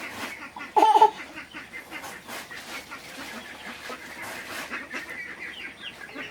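Domestic fowl calling and clucking, with one short, loud pitched call about a second in, over scattered small clicks and rustles.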